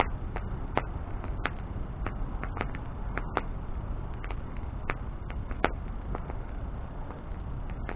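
Wood bonfire crackling: irregular sharp pops, about one or two a second, over a steady low noise from the burning fire.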